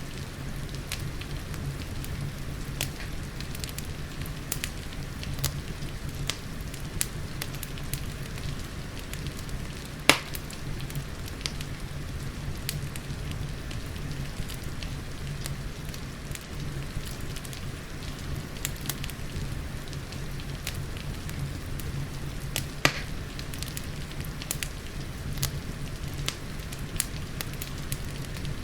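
Wood fire crackling, with frequent small snaps and a few sharper pops, the loudest about a third of the way in, over a steady rain-like hiss and low rumble.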